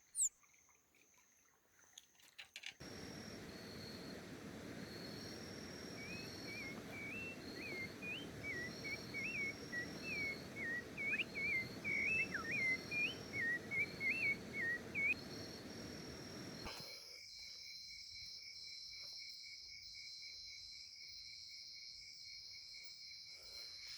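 Outdoor ambience in two parts. First a steady rushing background with a songbird giving a quick run of varied chirping notes. Then, after an abrupt change about two thirds of the way in, crickets and other night insects trilling steadily.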